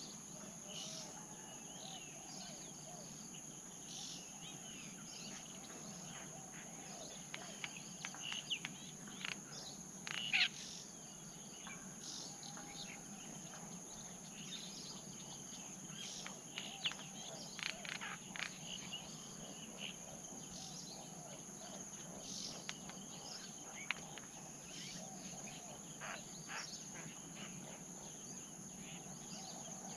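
Forest ambience: a steady high-pitched insect drone with many short chirps from small birds, and faint low repeated coos of a spotted dove.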